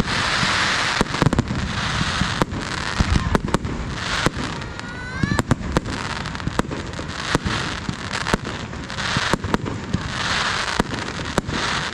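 Fireworks display: a rapid run of sharp bangs from shells bursting one after another, with patches of hissing crackle, and a rising whistle about five seconds in.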